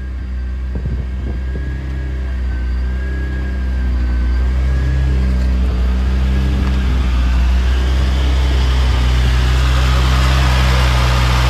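Heavily tuned Nissan GT-R twin-turbo V6, built to about 1197 horsepower, idling steadily. It grows louder in the second half as the open engine bay comes close.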